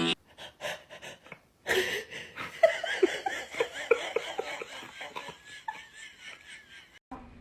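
A person laughing in quick, breathy, rhythmic pulses, with a short break about a second and a half in.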